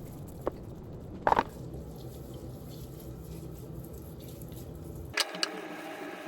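Kitchen tap running into a sink, with a light click and then a louder clunk early on; the running water cuts off suddenly about five seconds in.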